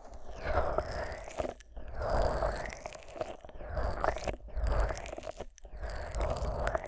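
Fingers thick with Vaseline rubbing and massaging the silicone ears of a 3Dio binaural microphone, a sticky, squelchy rubbing in uneven strokes. It is broken three or four times by brief sharp drop-outs.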